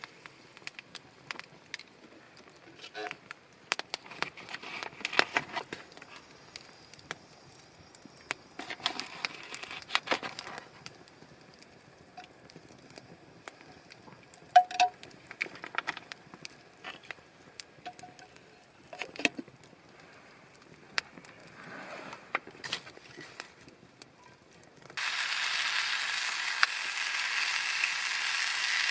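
Campfire crackling with scattered sharp pops and light rustling. Near the end a loud, steady sizzle starts suddenly.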